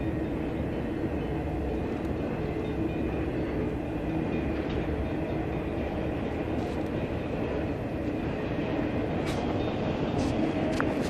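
A train running with a steady rumble, a few sharp clicks coming in near the end.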